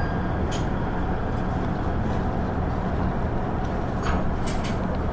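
Running noise of a KiHa 110 series diesel railcar under way: a steady low rumble of the diesel engine and wheels on rail, with a few sharp clicks, one about half a second in and several close together near the end.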